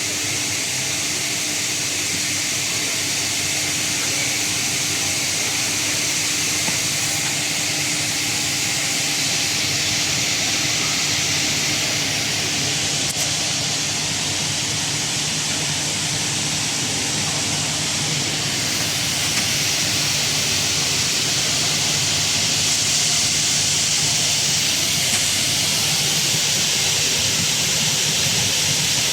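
Semi-automatic dual circular saw cutting machine running steadily: a continuous hiss with a low hum and a steady tone underneath.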